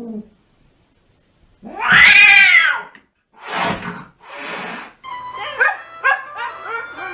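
A cat's loud meow that rises and falls, about two seconds in, followed by two short raspy cat sounds; music comes in about five seconds in.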